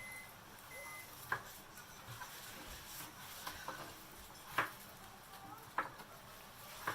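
Scattered light clicks and knocks of kitchen utensils and dishes being handled, about six sharp taps spread irregularly over a faint steady hiss.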